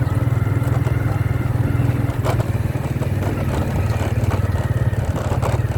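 Motorcycle engine running steadily under way, its rapid firing pulses low and even, with a few faint knocks.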